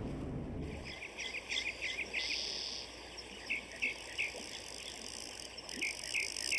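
Outdoor countryside ambience: short bird chirps, a quick run of them and then single ones, over a steady high insect buzz like crickets.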